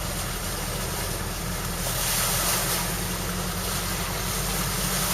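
Steady engine rumble with a rushing hiss of water, as a vehicle moves through floodwater on a road; the hiss swells about two seconds in.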